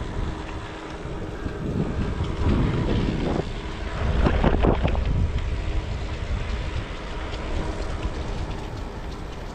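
Wind buffeting the camera microphone with a steady low rumble. Brief knocks and rustling come from about two and a half to five seconds in.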